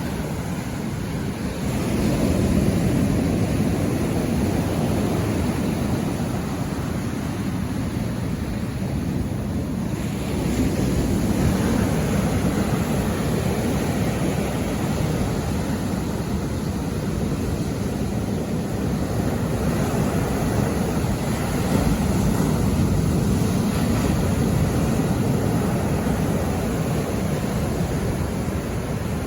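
Sea waves breaking and washing on the shore: a continuous deep rush that surges louder a few times as waves come in.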